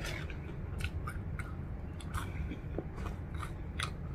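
A person chewing crunchy air-fried curly fries, cooked a little too long: irregular crisp crunches and mouth sounds over a low steady hum.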